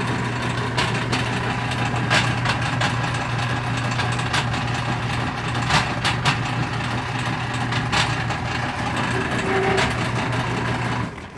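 Whirlpool direct-drive washing machine running with a steady motor hum and irregular sharp clacks and pops every second or so, a fault noise in a washer that also won't drain. The running cuts off near the end.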